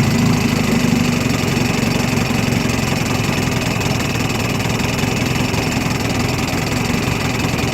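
1954 Johnson RDE-16 25 hp two-stroke twin outboard motor idling steadily: a pretty nice idle for such a big old motor.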